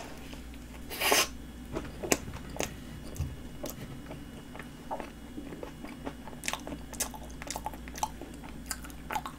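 A person biting into and chewing a cream-filled flaky pastry horn: a crunchy bite about a second in, then chewing with many small sharp crackles and clicks, over a faint steady low hum.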